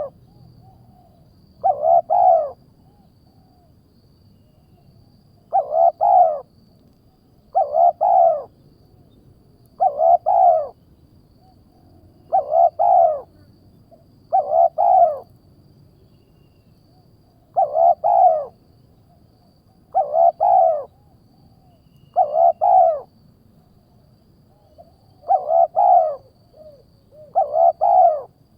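A bird call repeated about every two seconds, each call a short cluster of two or three pitched notes, used as a lure call for trapping eagles.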